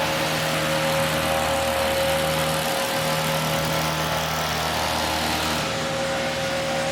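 A small engine running steadily at a constant high speed, with a steady hum and a hiss.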